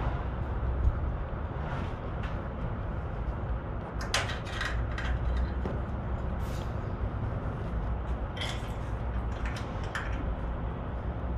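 A few light clicks and clinks from hand-work on a flatbed truck's tarp as it is pulled tight, over a steady low rumble.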